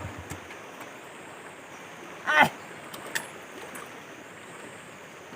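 A motorbike engine cuts out at the very start, leaving the steady rushing of a stream's flowing water. One short call with a falling pitch comes about two seconds in.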